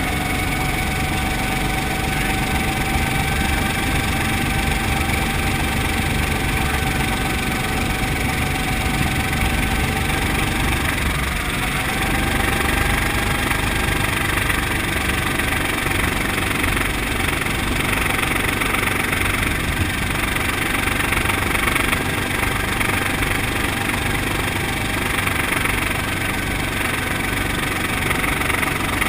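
Brantly B-2B helicopter's piston engine and rotors running steadily in flight. About eleven seconds in, the engine note dips and shifts as the collective is lowered too quickly to start a descent. This splits the needles: engine speed falls away from rotor speed on a machine with no governor.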